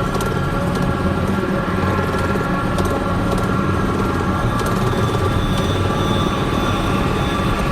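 Mini bike engine running steadily, a continuous low rumble with a few light clicks.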